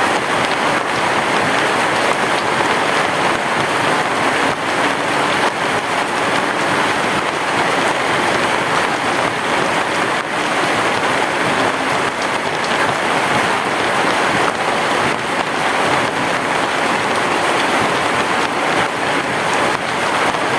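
Heavy rain falling steadily: a dense, even hiss with fine scattered drop ticks.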